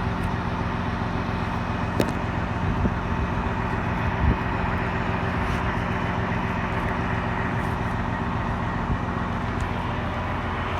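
Steady hum of an idling engine, with a few faint clicks and knocks from a phone being handled.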